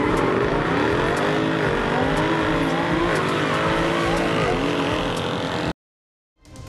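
High-performance car engine accelerating hard, its pitch climbing and dropping back three times as it shifts up through the gears. It cuts off abruptly about a second before the end.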